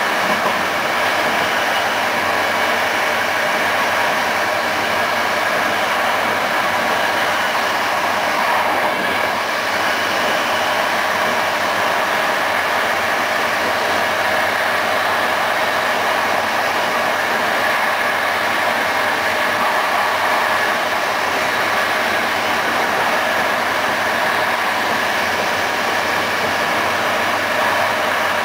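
Passenger train running steadily along the line, giving an even, unbroken rolling noise of wheels on rails.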